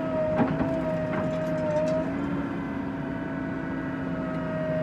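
Tractor engine running steadily with a constant whine, and a brief knock about half a second in.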